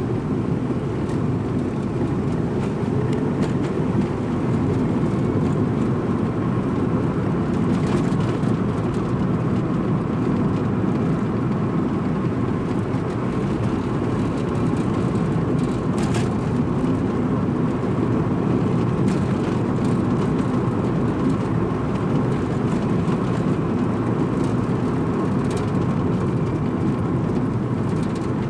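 Strong wind buffeting the microphone: a loud, steady, low rumble of wind noise.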